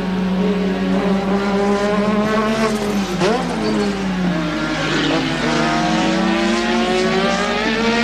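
Formula One car's 1.5-litre turbocharged engine running at speed. Its pitch dips about three seconds in and then climbs again as it accelerates.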